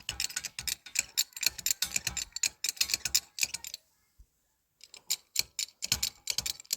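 A rapid run of sharp clicks and taps, several a second, breaking off into near silence for about a second midway before resuming.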